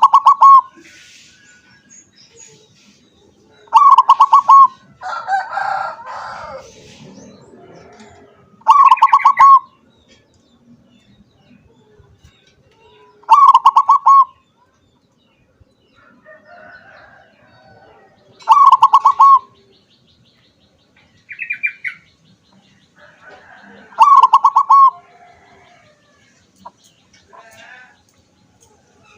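Zebra dove (perkutut) singing: a loud, rapid stuttering coo phrase about a second long, repeated about every five seconds, six times. Between phrases there is a brief rustle and one short higher call.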